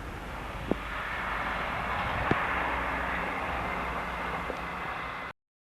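Freight train behind a TEM2UM diesel locomotive moving off: a steady running noise that swells slightly, with a few sharp metallic clanks. The sound cuts off abruptly near the end.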